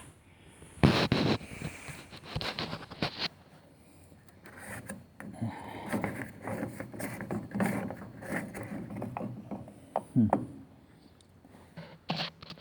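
Plastic drain-pump filter cap of a front-loading washer being twisted loose and worked out of its housing, giving scrapes and clunks of plastic against tool and housing, with a sharp knock near the end.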